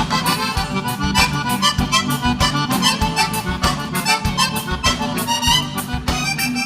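Live gaúcho dance band playing an instrumental break led by accordion, with bass and a steady drum beat.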